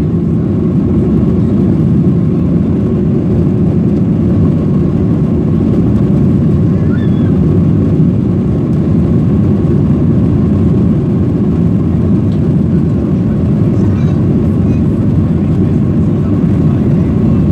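Boeing 737-800's CFM56-7B jet engines running at takeoff power, heard from inside the passenger cabin as a steady low rumble with a faint steady whine above it.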